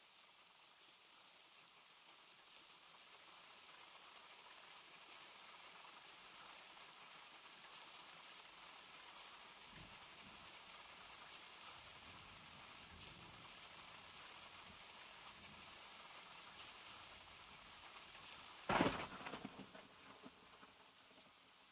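Steady rain, slowly growing a little louder, with low rumbles of thunder midway. Near the end comes a sharp thunderclap that rolls away over a couple of seconds.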